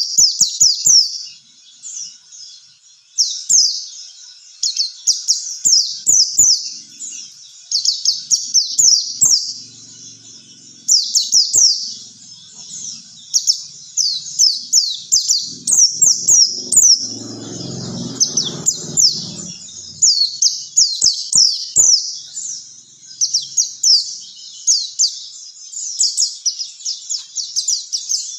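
White-eye (pleci) song: long, rapid runs of high, downward-sweeping chirps, packed closely together, as used to coax caged white-eyes into singing.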